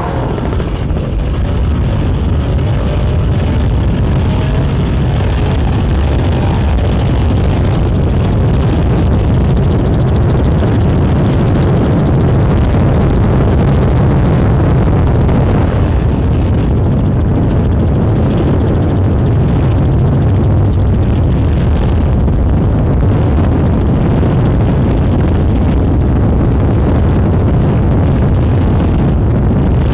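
Loud, steady motor noise with a fast low throb, building over the first few seconds and then holding level.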